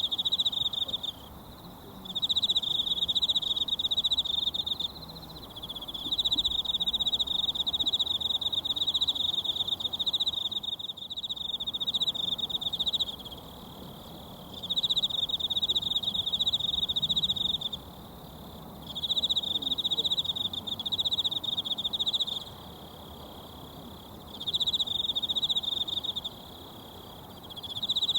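An insect, cricket-like, trilling loudly in repeated bouts of a few seconds with short pauses between them. Beneath it runs the faint steady rush of a mountain stream.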